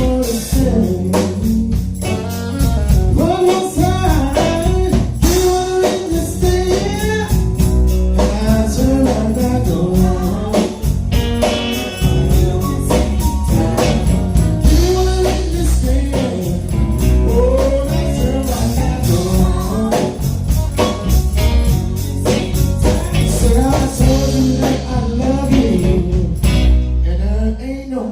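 A singer performing a song with a band: wavering, sustained vocal lines over bass, guitar and a steady drum beat.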